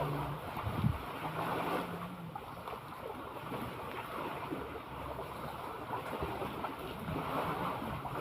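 Sea ambience: waves washing and wind buffeting the microphone in a steady rushing noise.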